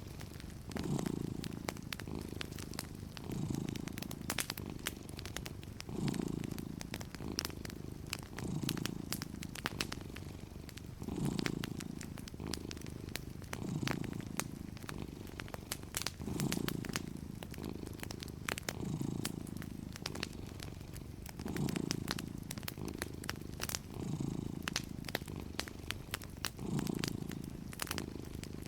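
Domestic cat purring steadily and close, the purr swelling with each breath about every two and a half seconds, over the scattered pops and crackles of a wood fire.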